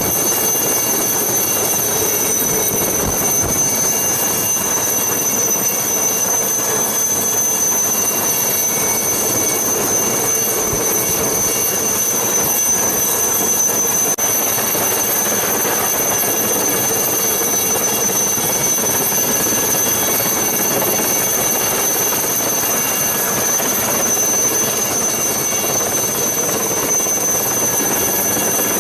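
Helicopter engines and rotor running steadily, with a constant high-pitched turbine whine over the noise.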